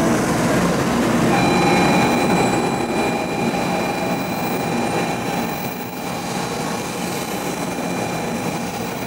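N700 series Shinkansen pulling out of the station, its cars rolling past with a steady running rumble that slowly fades as the train moves away. A steady high whine joins about a second in.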